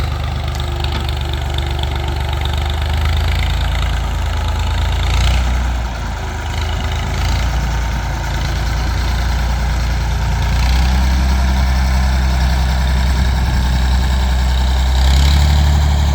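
Tractor engine working under load while pulling a box blade over the ground. Its note dips about six seconds in and picks up again at about ten seconds, getting louder near the end.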